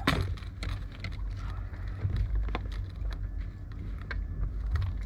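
Fishing gear being handled in a small inflatable boat: scattered light knocks and clicks over a steady low rumble.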